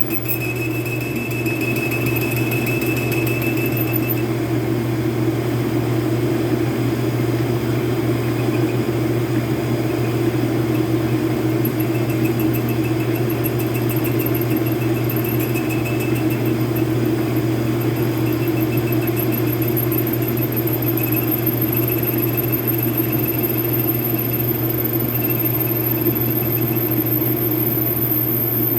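Metal lathe running steadily with a cut in progress on a shell mill, a constant low hum under a rough machining noise. A thin high-pitched squeal sounds over the first few seconds and comes back stronger through the second half.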